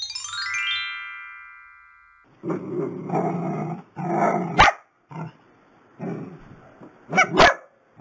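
A short chime jingle that steps down in pitch and rings out, fading over about two seconds. Then small long-haired dachshunds bark excitedly, in about five bursts, some of them sharp yaps.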